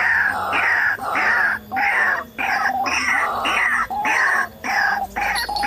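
White-breasted waterhen calling: a loud, unbroken run of repeated 'ruak-ruak' notes, about two a second, each falling in pitch.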